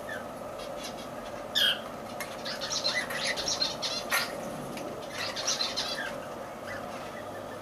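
Lovebirds chirping: a sharp call about a second and a half in, then runs of rapid high chirps, another sharp call around four seconds, and more chirping, over a steady background hum.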